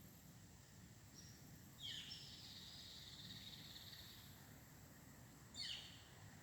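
A wild bird calling: a sharp downward-sweeping call about two seconds in, followed by a buzzy high trill lasting about two seconds, then another sharp downward call near the end, over faint outdoor background.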